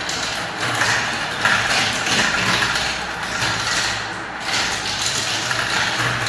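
Many small balls rolling down a spiral marble-run track, a continuous dense rattle of rolling and clicking.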